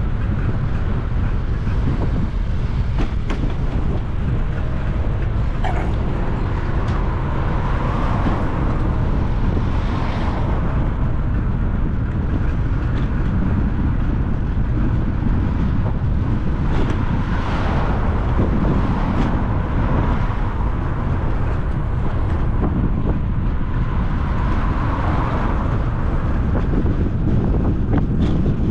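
Wind buffeting the microphone on a moving bicycle, a steady low rumble, with several swells of road traffic passing along the way.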